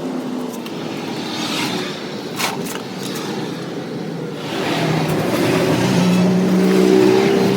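A motor vehicle engine running steadily, growing louder about halfway through, with a short sharp click partway in.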